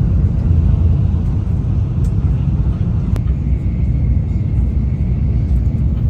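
Steady low rumble of a Shinkansen bullet train carriage, with a couple of faint clicks and a faint thin high tone in the second half.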